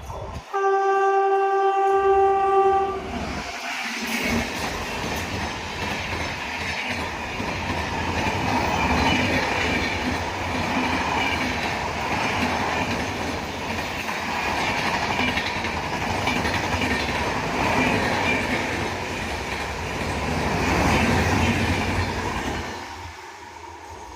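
Express train sounding one steady horn blast for about two and a half seconds, then rushing past at speed with wheels clattering over the rail joints for about twenty seconds, dropping away near the end.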